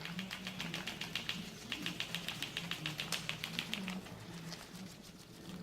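Paper wings of an origami flapping bird being worked by hand, making a rapid run of light paper clicks, about six a second, that stops about four seconds in.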